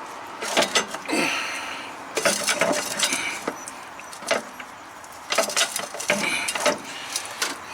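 Metal tools and parts clinking and rattling in several short clusters of clicks, from hand work on a truck's air dryer.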